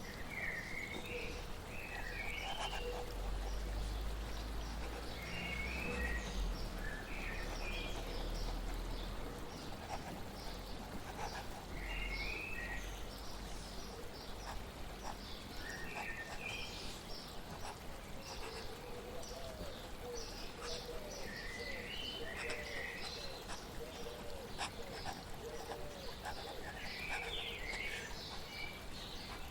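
Birds singing short chirping phrases every few seconds over a steady background of flowing water, with a low rumble under the first several seconds.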